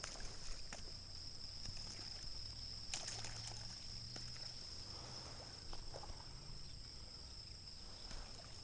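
A steady high-pitched insect chorus with scattered short splashes of wipers (hybrid striped bass) breaking the surface while feeding on topwater.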